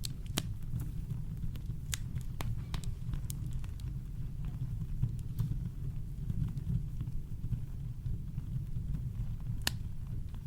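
Campfire crackling: irregular sharp pops and snaps scattered over a steady low brown-noise rumble, with one louder pop near the end.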